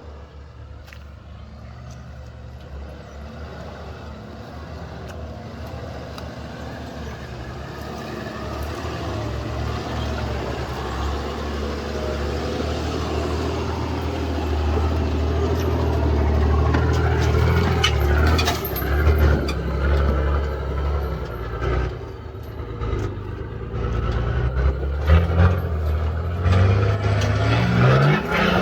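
Off-road 4WD engine running under load as the vehicle comes closer, growing steadily louder, then revving up and down in short rising pushes near the end.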